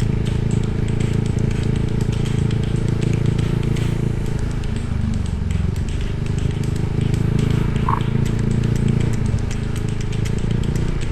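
Motorbike engine running steadily while riding, with road and wind noise; the engine note drops briefly about five seconds in and then picks up again. A short high tone sounds about eight seconds in.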